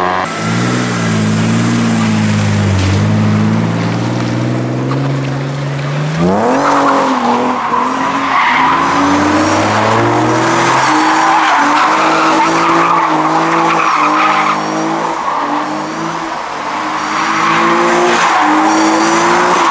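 A car engine running at a steady note, then revved hard about six seconds in and held high, rising and falling over and over, while the tyres spin and squeal in a burnout.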